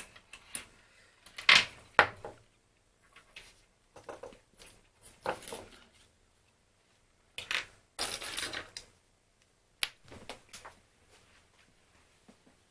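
Plastic clicks, knocks and short rustles of a BeoCom 2 cordless phone handset being handled. The sounds come in irregular bursts: sharp clicks about half a second, a second and a half and two seconds in, longer scraping near the middle, and a single click near ten seconds.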